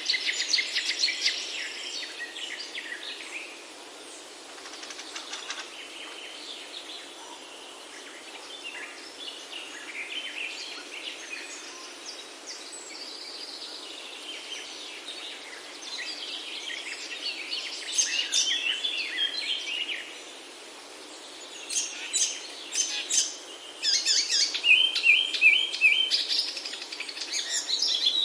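Birds chirping and singing in short bursts over a steady background hiss, with the calls busiest in the second half.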